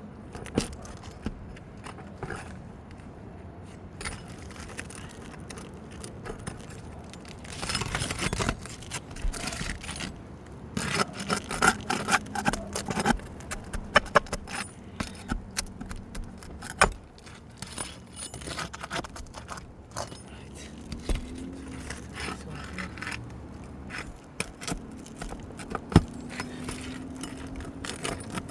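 Flat bar and hammer prying staples out of roof shingles: irregular metallic scraping and clinking, with sharp knocks now and then, busiest in the middle.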